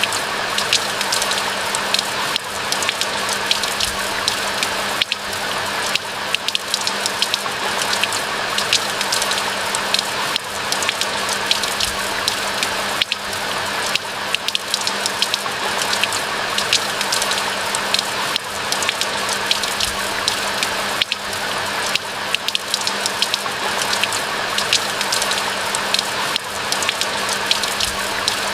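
Steady rain falling, a dense even hiss with many separate drop hits throughout.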